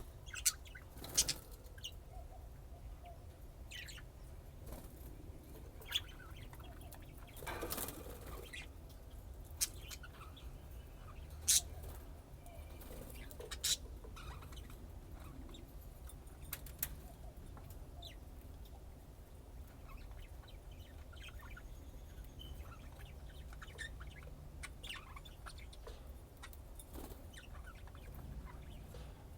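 Pet budgerigars with scattered short chirps and clicks, and a brief flutter of wings about eight seconds in, over a low steady hum.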